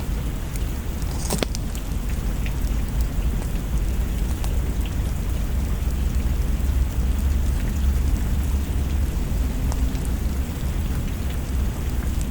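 Steady rain with a low rumble underneath and scattered sharp crackles from a wood fire, the strongest crackle about a second in.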